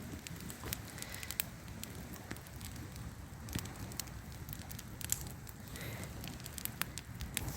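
Wood campfire crackling, with irregular sharp pops and snaps, over a low rumble of wind.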